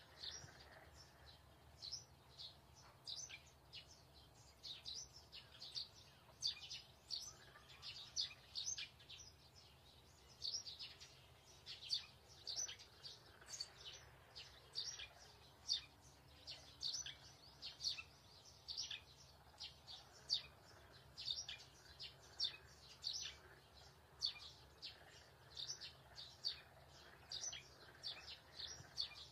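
Small birds chirping in the background: short, high, sharp chirps repeated a few times a second, over a faint steady low hum.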